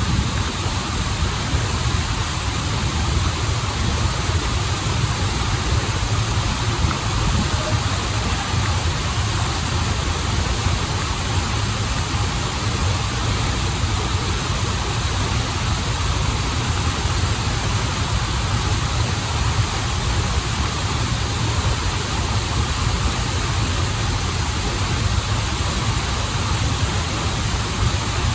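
Waterfall and flowing stream: a steady, unbroken rush of water with a strong deep rumble.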